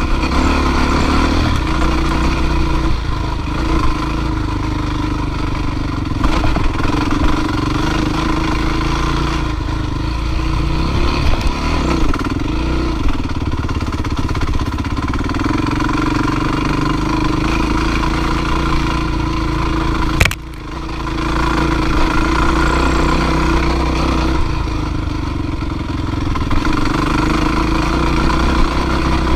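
Dirt bike engine running steadily, with a sharp click and a brief drop in level about two-thirds of the way through.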